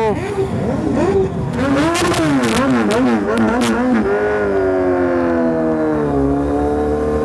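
Motorcycle engine revved in quick repeated blips, with sharp exhaust pops among them, then settling into a steady note that sags and slowly climbs again.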